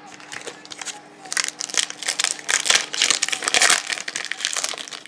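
Crinkling of a trading-card pack's wrapper being handled and opened, a dense run of crackles that builds about a second in and eases near the end.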